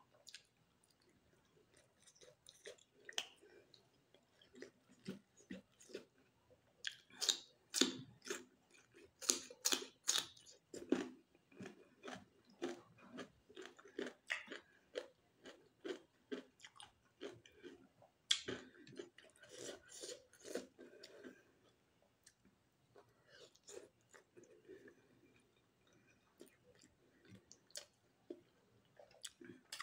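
A person chewing a steamed momo dumpling: wet clicking mouth sounds in irregular runs, busiest about a quarter of the way in and again about two-thirds of the way through.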